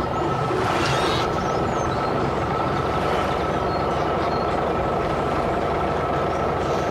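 A tractor engine running steadily, with a constant low rumble and a thin steady whine over it.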